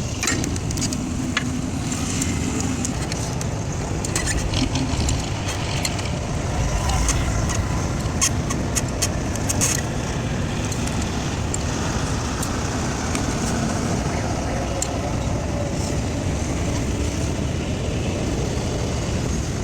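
A motor vehicle running: a steady low rumble with scattered sharp clicks and rattles.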